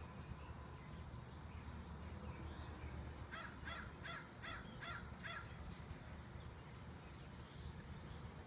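A bird calling in a quick series of about six short calls a little past the middle, over a faint steady low background hum.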